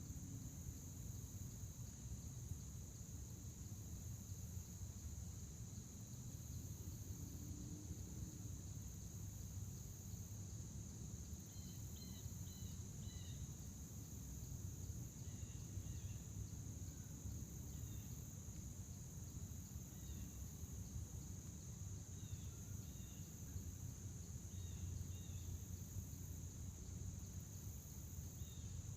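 Crickets trilling steadily in a high, unbroken chorus, with a fainter second insect tone below it. From about halfway through, short bird chirps come in and out, over a low steady rumble.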